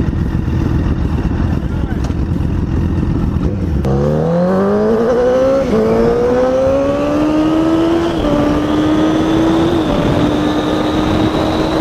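Motorcycle engine accelerating hard, its pitch climbing through the gears with upshifts about six, eight and ten seconds in, after a steady low rumble of wind and engine noise.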